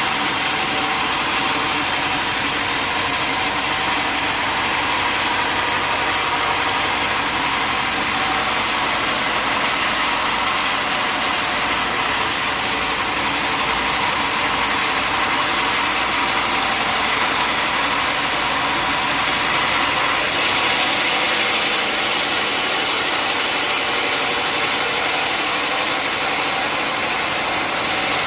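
Sawmill machinery running steadily, a continuous loud mechanical noise with no breaks or changes in pitch.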